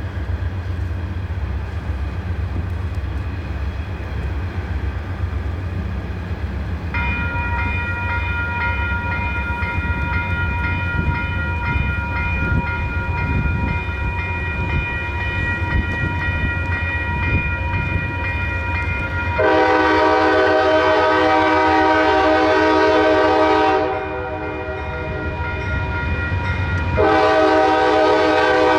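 Diesel freight locomotives running with a steady low engine rumble as the train approaches, with a steady high-pitched ringing tone joining. Near the end the locomotive air horn sounds two long blasts, the second continuing on.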